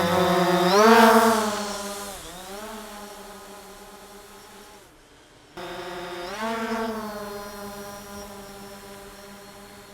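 DJI Phantom 4 quadcopter's propellers humming, rising in pitch as the motors throttle up for lift-off, then fading as it climbs away. The hum cuts off about five seconds in, and the same rise and fade comes again.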